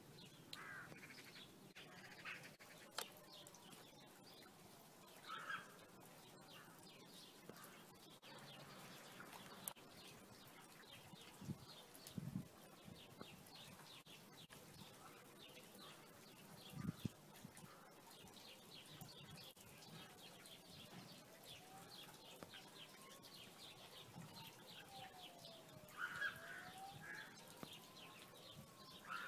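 Near silence with faint bird calls: scattered short chirps and, in the last third, slow rising-and-falling whistles. A few soft knocks near the middle.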